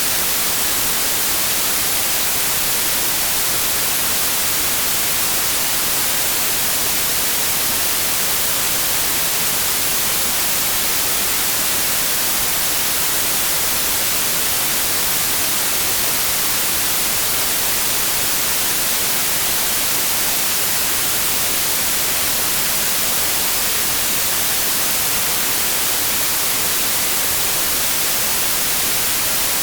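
Steady synthetic white noise: an even, unbroken hiss that is strongest in the high treble and thin in the bass.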